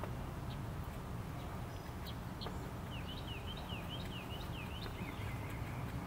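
A bird gives a quick run of rising-and-falling chirps for about two seconds, starting about halfway through and trailing off into lower, softer notes. A few single high chip notes come earlier, over a steady low rumble.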